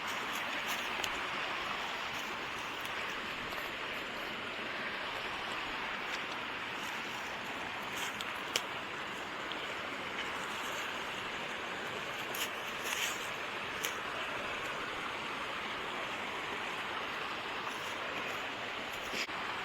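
Fast-moving creek water rushing steadily, with a few short clicks about halfway through.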